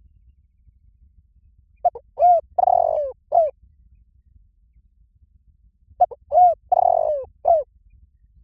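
Spotted dove cooing: two phrases about four seconds apart, each of four or five short coos with one longer, drawn-out coo in the middle.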